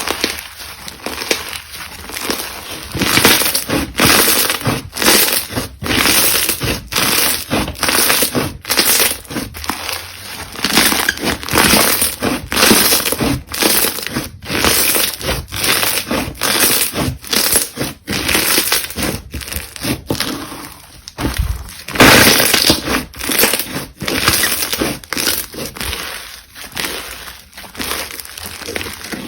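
Slime being pressed, squeezed and poked by hand: a dense, uneven run of short crackly, popping noises with no pauses.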